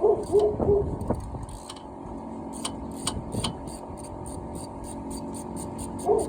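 A few sharp metal clinks of hand tools on the hub and brake parts in the first few seconds. A bird's short repeated calls come in the first second, and a faint high chirping repeats about three times a second over a low steady hum.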